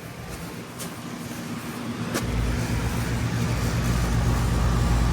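Lennox central air conditioner condensing units running: a steady low compressor and fan hum that grows louder, much stronger from about two seconds in, with a couple of faint clicks.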